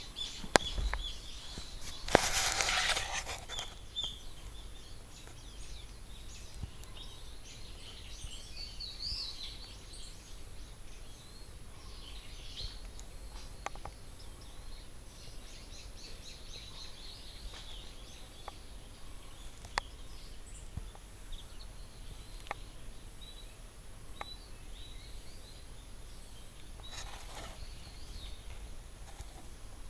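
Wild birds chirping and calling, many short high calls over a steady outdoor background. A brief rush of noise about two seconds in and another near the end, with a few sharp clicks.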